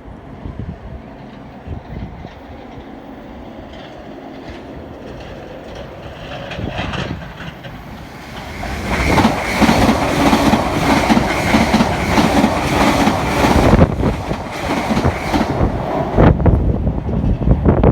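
A train passing close by: it builds over several seconds, then its wheels clatter rhythmically over the rail joints for about seven seconds before it drops away. Wind buffets the microphone near the end.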